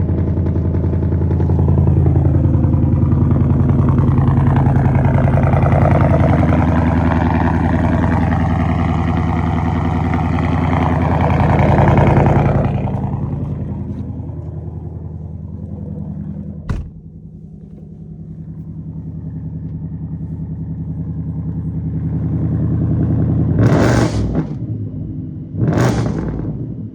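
2024 Ford Mustang's 5.0 Coyote V8, straight-piped with no mufflers, running loud with a wavering note for about thirteen seconds, then dropping to a quieter, steady idle. A single click comes a few seconds after the drop, and two short sharp bursts come near the end.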